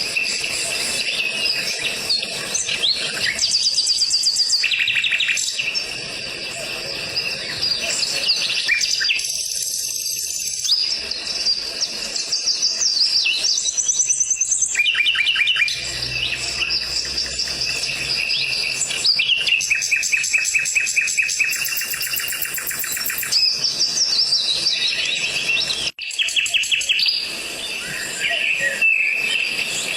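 Java sparrows chirping and singing, with overlapping high chirps and fast runs of repeated notes.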